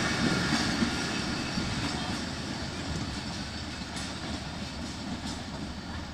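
Passenger train coaches rolling away over the rails, the rumble and wheel clatter fading steadily as the last coach draws off down the line.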